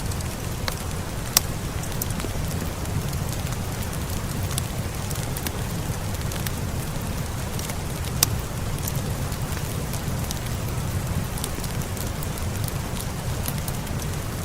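Steady rain with scattered crackles and pops from a wood fire. A sharper pop comes about a second in and another about halfway through.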